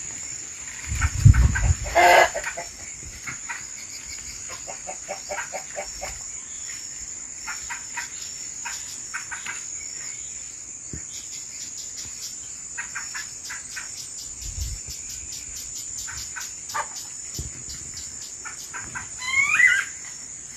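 Chickens clucking, with a louder call about two seconds in and a rooster-like crow near the end, over a steady high-pitched buzz. A run of quick, high chirps of about four a second fills the second half.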